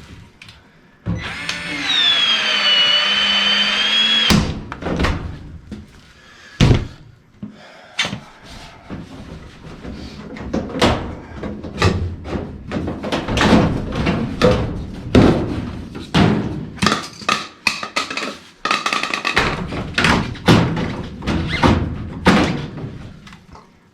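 A power tool's motor runs for about three seconds with a high whine, then stops, followed by a long run of sharp metal knocks and clanks as furnace sheet metal and parts are worked on by hand, with a few short scraping or whirring stretches near the end.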